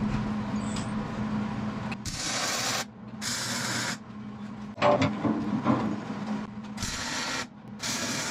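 MIG welder laying short tack welds: four separate hissing bursts, each under a second, with a steady low hum underneath.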